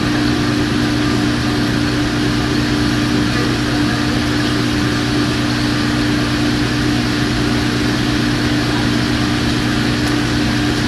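Steady mechanical hum of a kitchen ventilation fan, with an even hiss and no change in level.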